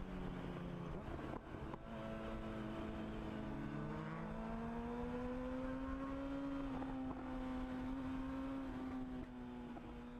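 Suzuki Hayabusa inline-four engine heard from the rider's seat while riding at highway speed, with wind noise on the microphone. The engine note dips about two seconds in, then rises steadily for several seconds as the bike gains speed, and holds a steady pitch toward the end.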